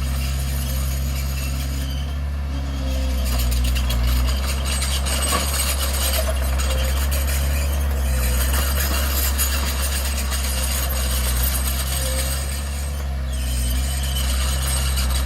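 Heavy diesel engine of earthmoving machinery running steadily, with a continuous clatter over it.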